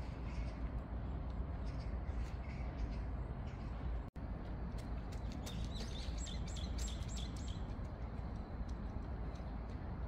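Small birds chirping and twittering over a steady low background noise, with a quick flurry of chirps in the middle. The sound cuts out for an instant about four seconds in.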